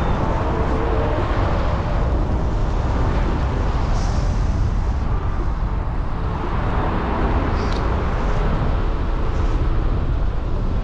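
Wind buffeting the microphone, a steady low rumble without pause.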